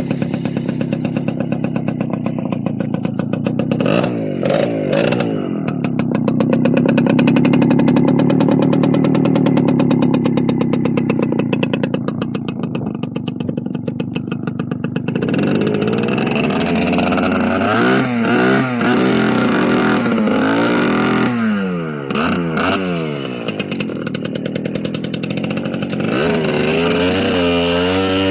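Small motorcycle engine running under way: a steady drone through the first half, then from about halfway on the revs rise and fall again and again, with quick up-and-down throttle changes near the end.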